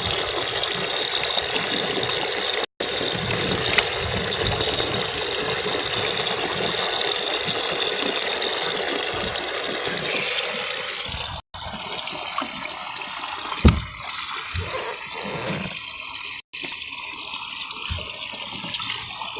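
Water running in a steady rush for about eleven seconds, then a quieter stretch of water with a few short knocks.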